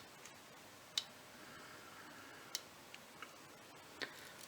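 A few faint, scattered clicks and ticks of fingernails and card as the release paper is picked off the foam adhesive on small die-cut card pieces.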